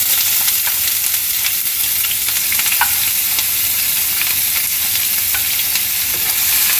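Sliced onions sizzling loudly and steadily as they fry in hot oil in a pan, just after being tipped in.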